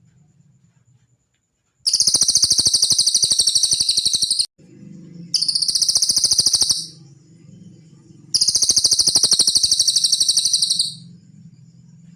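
Cililin songbird singing three long, very fast, high-pitched trills with short pauses between them.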